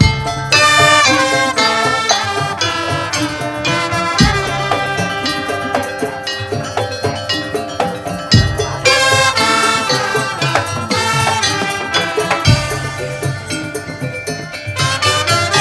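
Madurese tong-tong music: a percussion ensemble playing a fast melodic tune of quick struck, pitched notes over steady drumming, with a deep low stroke about every four seconds.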